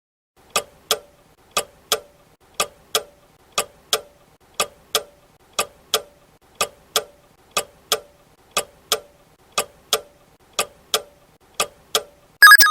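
Clock ticking sound effect used as a quiz countdown timer, a tick-tock pair about once a second through a 12-second answer period. Just before the end, a louder short ringing tone marks time up.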